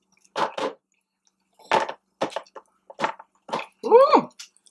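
Close-up eating sounds of a person chewing a mouthful of spicy wings: several short smacks and breaths spaced through the clip, then a short hum falling in pitch about four seconds in.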